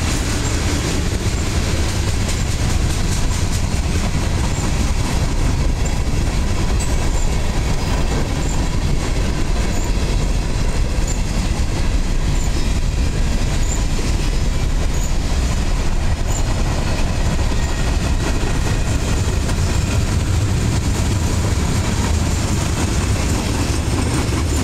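Freight cars of a long freight train rolling past close by: a steady rumble of steel wheels on the rails.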